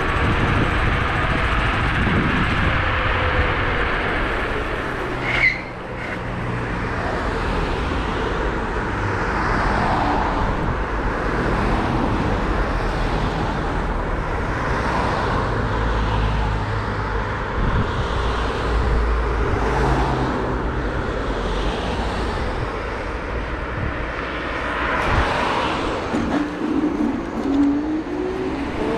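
Dualtron Thunder and Kaabo Wolf Warrior 11+ electric scooters riding, a steady rush of wind and road noise, with one short sharp noise about five seconds in and a rising motor whine near the end.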